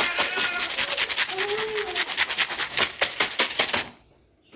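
A cat scratching in rapid, even strokes, about eight a second, that stop abruptly near the end.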